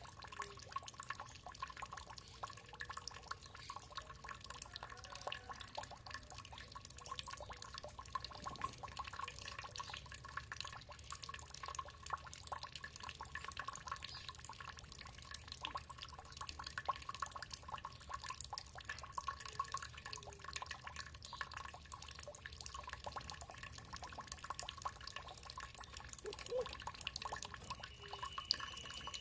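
Water trickling and dripping in rapid, irregular drops.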